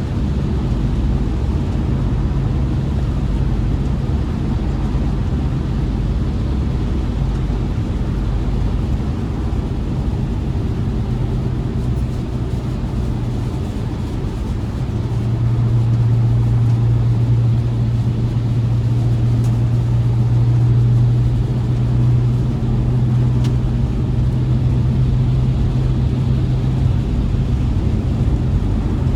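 BMW E60 sedan being driven: a steady low engine drone over road rumble. The drone grows louder about halfway through, holds for some ten seconds, then eases back.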